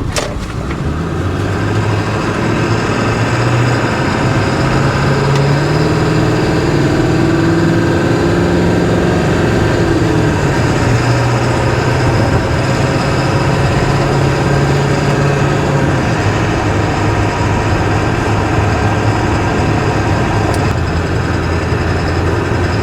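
Ford F350's 7.3-litre Power Stroke turbo-diesel V8 running steadily on the road, heard from inside the cab with a constant hum of road and tyre noise; the engine's low drone shifts pitch slightly a few times.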